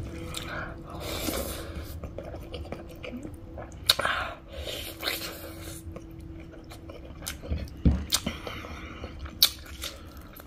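Close-miked eating by hand: chewing and wet mouth smacks on a mouthful of rice and meat, with irregular small clicks.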